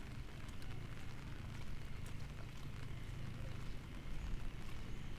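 Outdoor ambience in light rain: scattered drips and small ticks over a low, steady rumble.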